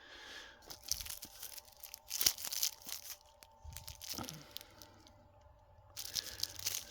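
Fireworks packaging crinkling and rustling as items are handled and lifted out of a cardboard box, in several short bursts with a few sharp clicks.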